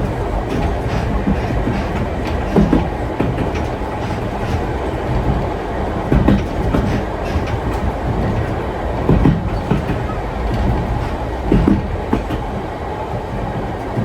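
Vintage railway carriage running along the track: a steady low rumble with clusters of wheel knocks over the rail joints every few seconds.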